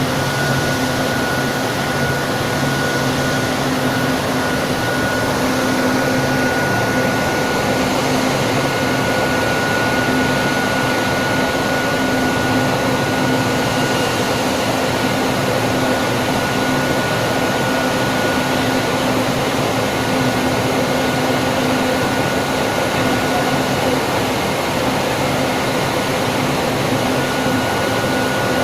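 Flat convection glass tempering furnace running: a steady rush of air from its fans and blowers, with a steady high whine and a low hum.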